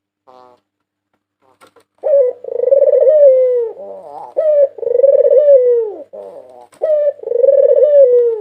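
A white ringneck dove (puter putih) cooing three times, starting about two seconds in. Each coo is a short rising note followed by a long, rolling, gently falling coo.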